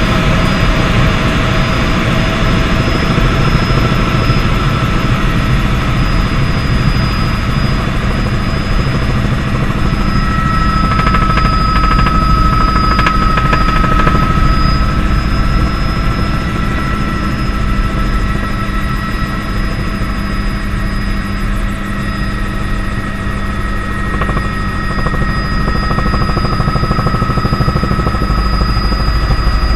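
Bell 206 JetRanger helicopter in flight: loud, steady turbine and rotor noise with a thin, high turbine whine running through it.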